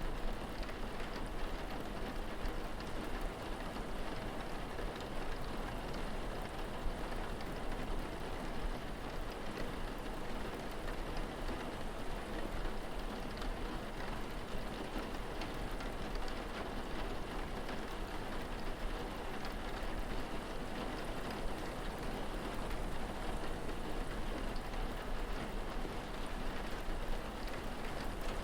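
Steady rain falling, with scattered drops pattering on a surface, an even continuous hiss.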